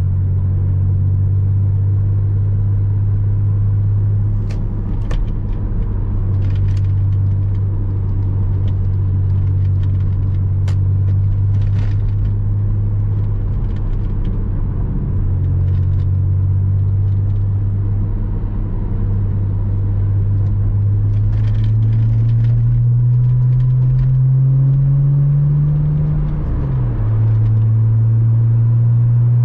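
Porsche Boxster 986's flat-six engine under way at a steady note, then rising in pitch as the car accelerates, dropping sharply about 26 seconds in at a gear change and settling again. Scattered faint clicks.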